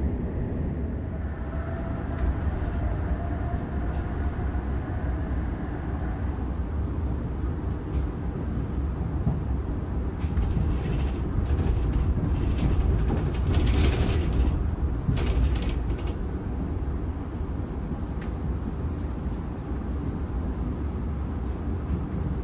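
Inside the carriage of a Sydney Trains Oscar (H set) double-deck electric train under way: a steady low rumble of the wheels on the track. A faint motor whine sounds in the first few seconds, and a louder hissing rush comes between about ten and sixteen seconds in.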